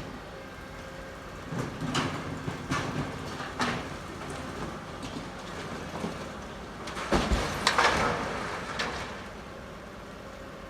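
Two bouts of clanking and knocking, the first about one and a half seconds in and the second about seven seconds in, over a steady low hum.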